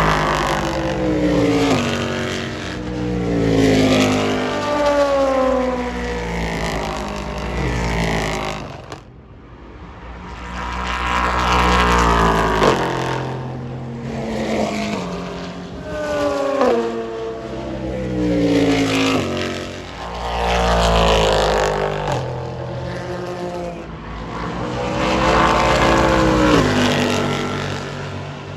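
Race cars passing one after another at full speed, each engine's pitch falling as it goes by, with the sound swelling and fading about seven times. There is a brief sudden drop just before nine seconds in.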